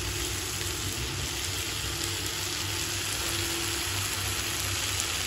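Chicken and a thick spice masala sizzling in oil in a wok, the masala fried until the oil has separated. The sizzle is steady, with a low, steady hum underneath.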